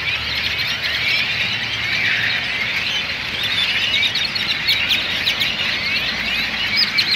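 A large flock of birds calling all at once: a dense, unbroken din of many overlapping squeaks and chirps.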